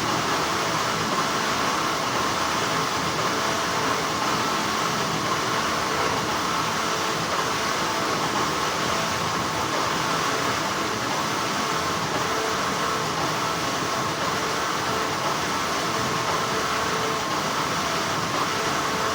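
Deep, continuous hum of textile factory machinery, a steady even noise with no distinct knocks or strikes standing out.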